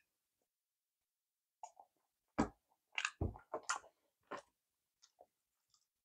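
Close-miked mouth sounds of chewing a soft wagashi confection: a cluster of short wet smacks and clicks in the middle, with two low thumps among them.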